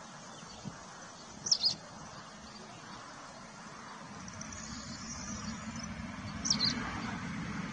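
A bird gives two short, quick, high chirps, one about a second and a half in and one near the end, over steady outdoor background noise. A low rumble grows louder through the second half.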